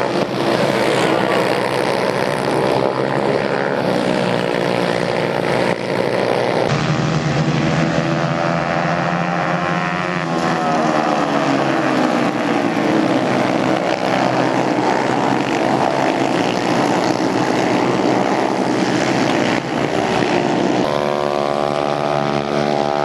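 Racing motorcycle engines running hard on the circuit, several at once, their pitch rising and falling as they accelerate and change gear.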